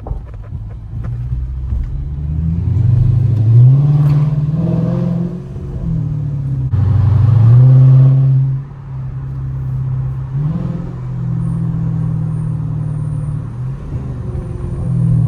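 Car engine running and being revved, its note climbing in pitch several times and dropping back.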